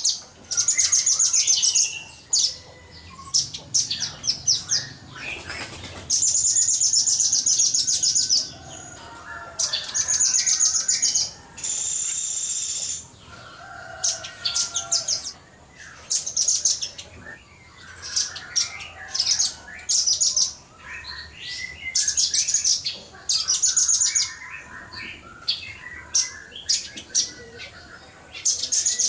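Velvet-fronted nuthatch singing: bursts of rapid, very high-pitched trilled notes, each a second or two long, repeated with short pauses, and one longer unbroken high note about twelve seconds in. Fainter, lower chirps sound between the bursts.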